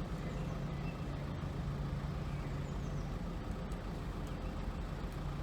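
Steady engine drone with a low hum and even rumble, unchanging throughout.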